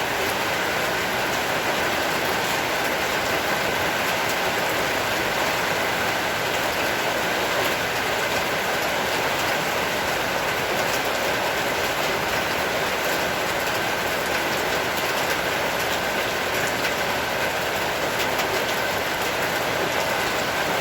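Heavy rain falling steadily: a dense, even hiss dotted with many small drop ticks, with a faint steady high tone underneath.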